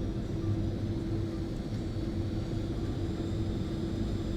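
Jet airliner engines and airflow heard from inside the passenger cabin: a steady rumble with a constant low hum.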